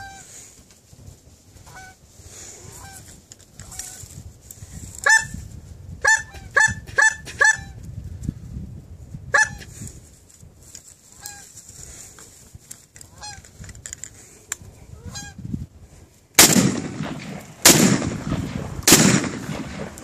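Geese honking in short calls, a quick run of them about a third of the way in, then three shotgun blasts a little over a second apart near the end.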